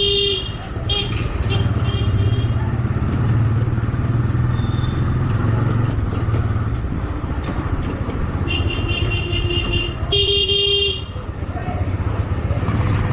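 Motorcycle engine running steadily on the move, with a vehicle horn honking: a short toot at the start, a few quick toots a second or so later, and two longer honks near the end.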